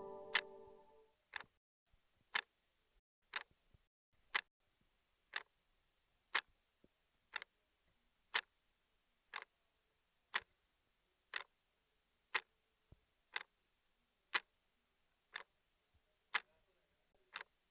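Clock ticking steadily, one sharp tick each second, over near silence.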